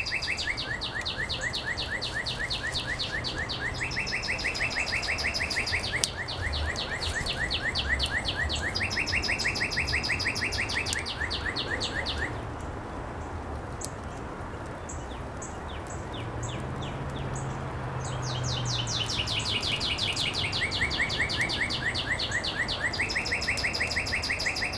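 Two birds calling in long, rapid runs of repeated notes that switch back and forth between a higher and a lower pitch. They stop about halfway through for several seconds, then start again.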